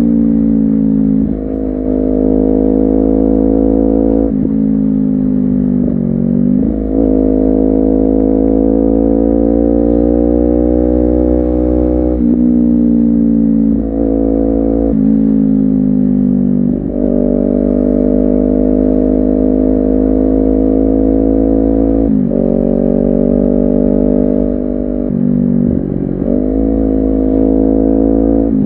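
Honda CBR250RR parallel-twin engine under way. Its pitch climbs gradually and then drops sharply several times, as at gear changes or the throttle being closed.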